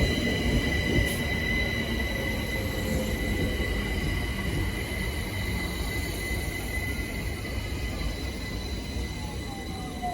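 Class 378 electric multiple unit arriving and slowing to a stop: a steady rumble of wheels on rail with a high steady whine, easing in loudness, and a tone falling in pitch near the end as the train brakes.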